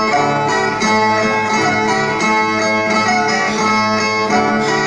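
Brazilian viola played alone in the instrumental interlude between the sung stanzas of a cantoria de viola, a steady repeating plucked-string figure.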